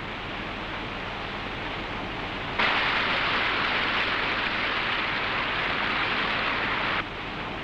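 Steady rush of white-water rapids, jumping abruptly louder and brighter about two and a half seconds in and dropping back suddenly about seven seconds in.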